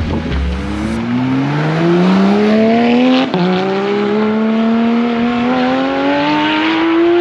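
Car engine accelerating hard: its pitch climbs steadily, drops at an upshift about three seconds in, then climbs again through the next gear.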